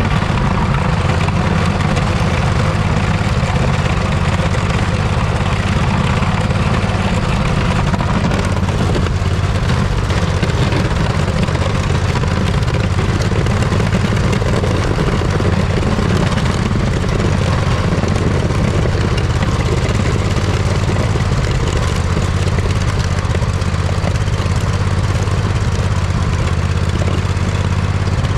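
Poulan riding lawn tractor's engine running steadily while it plows snow.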